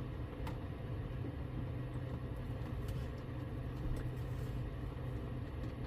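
Steady low hum of a small motor running, with a few faint light clicks.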